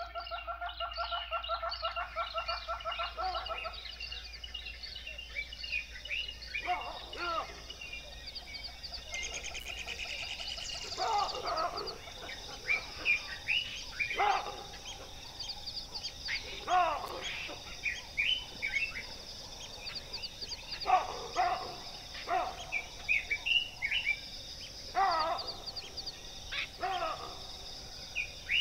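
Wild birds calling: a rapid pulsed chatter for the first few seconds, then many short calls that sweep steeply down in pitch, coming irregularly, over a steady high buzz.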